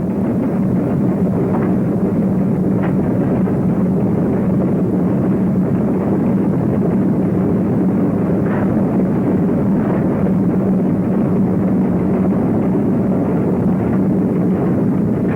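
Steam express locomotive running at speed, heard from the footplate: a loud, steady rumble and roar.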